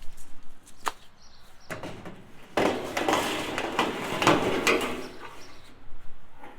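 Sheet-metal roofing panel being handled: a few sharp knocks, then a couple of seconds of scraping and rattling before it settles.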